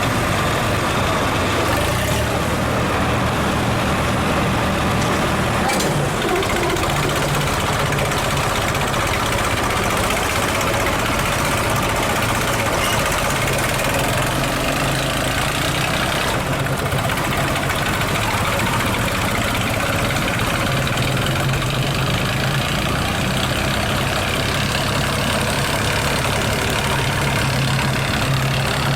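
Three-cylinder diesel engines of two Swaraj 855 tractors running steadily under load as the tractors pull against each other, the engine note shifting about six seconds in and again around twenty seconds in.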